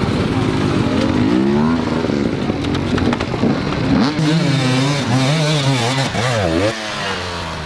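Dirt bike engine revving, its pitch rising and falling again and again as the throttle is worked, most strongly in the second half.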